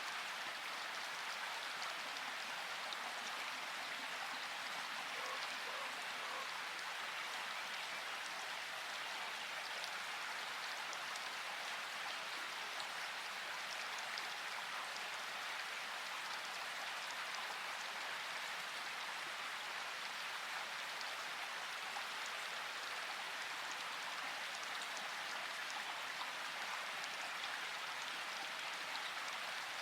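Steady rain falling: an even hiss with fine drop patter, unchanging throughout.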